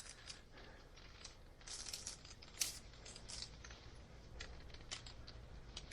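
Faint rustling and scattered light clicks of 14-2 electrical cable being handled and pulled out to be straightened, with one sharper click about two and a half seconds in.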